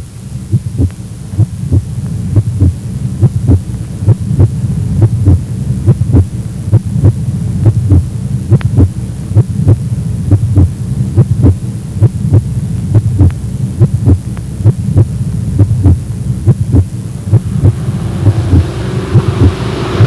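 A quick, steady pulse of low thumps over a low hum, fading in at the start. Near the end a rushing noise swells in.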